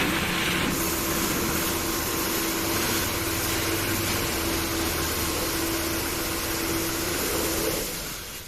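A machine running steadily, a hiss with a steady hum, fading away near the end.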